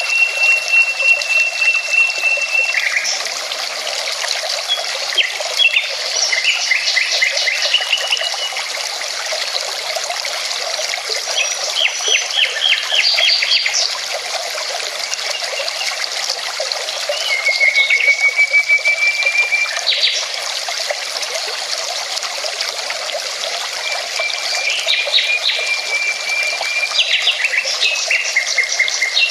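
A mountain river running steadily, with birds singing over it: a bird repeats a long, rapid trill on one pitch several times, between bursts of quicker chirping song.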